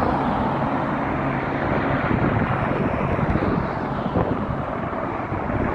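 Aircraft circling overhead, a steady drone with a faint low hum, mixed with low rumble.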